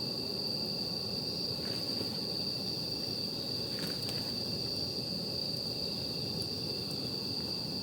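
Night insects trilling steadily in one continuous high tone over a low, even hiss of background noise, with a few faint crackles from a campfire.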